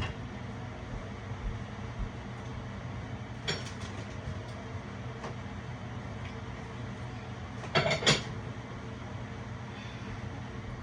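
Microwave oven running with a steady hum. There is a short click about three and a half seconds in, and a quick double click near eight seconds.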